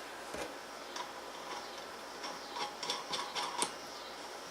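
Light metallic clicks and ticks of small steel machine bushings and washers being handled and slipped onto a shaft, one near the start and a quick run of them in the second half.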